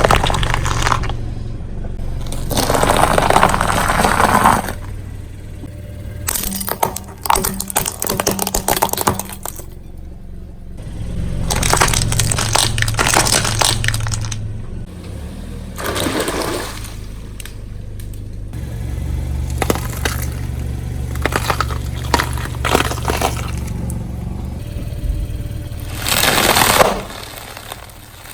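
A car tyre rolling slowly over brittle objects and crushing them, with repeated cracking and crackling and several longer crunches, over the low running hum of the car's engine.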